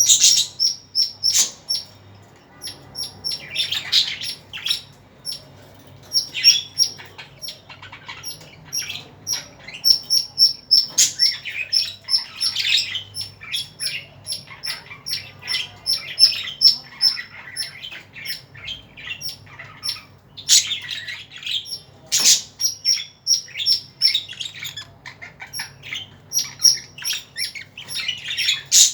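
Small pet parrots chirping and squawking without pause, a rapid run of short, sharp high calls that swells into louder bursts of chatter every few seconds.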